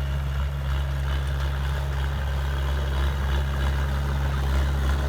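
Heavy diesel engine of a bulldozer or dump truck running steadily at a low, even hum.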